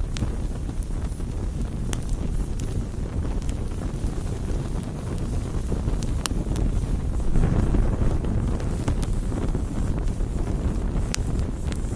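Wood campfire burning: a steady low rushing rumble with scattered sharp crackles and pops, the rumble swelling briefly a little past halfway.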